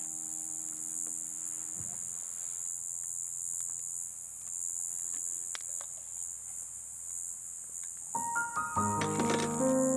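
Steady, high-pitched chorus of night insects. Soft piano music fades out about two seconds in, and a new piano melody starts about eight seconds in, with a few faint clicks in between.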